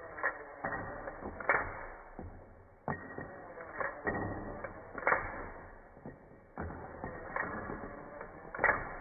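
Plastic LEGO Technic parts clicking and knocking as they are handled: about a dozen sharp, irregular clicks, each with a short ring.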